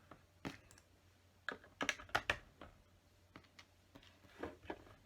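Small plastic LEGO bricks clicking and clattering as they are handled and pressed onto a build: a scatter of sharp clicks, bunched together about two seconds in.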